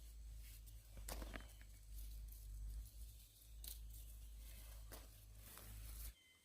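Faint rustling and a few soft clicks over a low rumble, which cuts off suddenly near the end.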